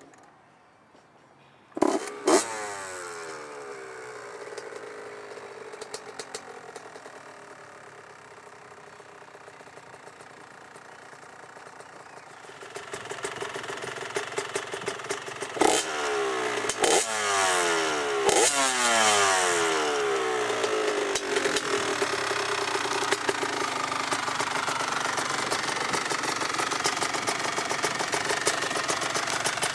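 2001 Honda CR80 two-stroke dirt bike engine, fitted with a brand new exhaust pipe, kick-started about two seconds in; it catches at once and settles to a fast idle. About halfway through it gets louder, with three sharp throttle blips whose revs fall away, then it runs on steadily.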